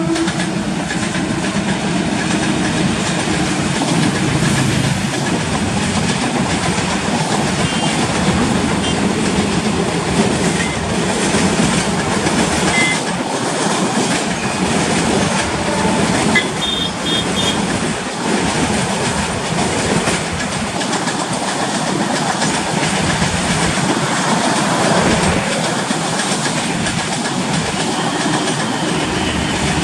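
Empty freight train hauled by twin WAG7 electric locomotives rolling past, its open wagons making a loud, steady rolling noise on the rails, with a passenger train passing on the adjacent track. A brief high wheel squeal comes about midway.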